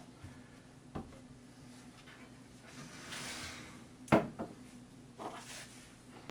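Kitchen handling sounds: a light knock, a soft rustle, then one sharper knock about four seconds in, like a container or dish being set down on a counter.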